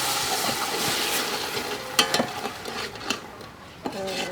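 Food sizzling in a hot pan while a utensil stirs it, knocking sharply against the pan a few times about halfway through.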